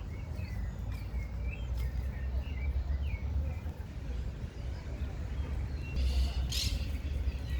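Birds chirping in short calls over a steady low rumble, with a brief loud hiss about six seconds in.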